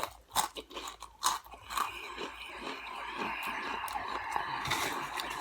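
Crunchy Flamin' Hot Cheetos being bitten and chewed: a few sharp crunches in the first two seconds, then a steadier run of crunching.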